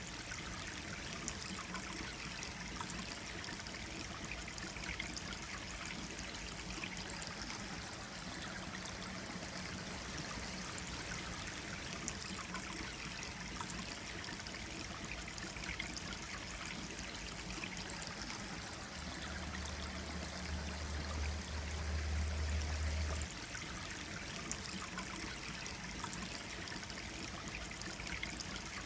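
Gentle stream flowing steadily, with water trickling. A deep low rumble swells for about four seconds past the middle, then cuts off.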